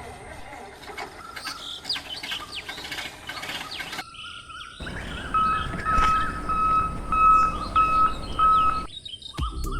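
Birds chirping and twittering with quick rising and falling calls. About halfway through comes a row of about seven even, high, steady notes, each roughly half a second long.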